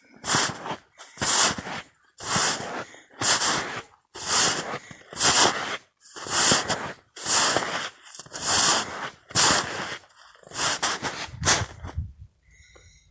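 Footsteps crunching in snow at a steady walking pace, about one step a second, stopping near the end.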